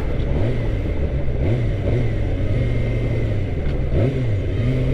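Suzuki GSX-R 600 inline-four engine running under way over wind rush, its pitch dipping and climbing back about three times.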